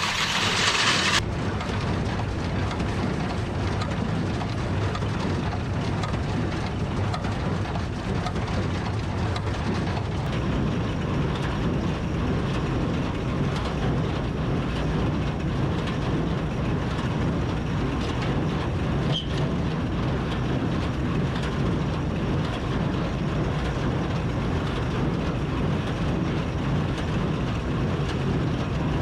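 Tractor running steadily while pulling a 1958 New Holland Super Hayliner 78 wire-tie square baler through the windrows, the baler clattering rhythmically as it works.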